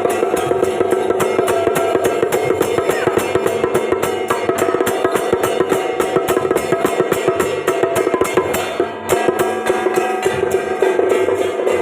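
Taiwanese temple procession music: loud, steady held melody lines over fast, dense percussion, with a brief dip in loudness about nine seconds in.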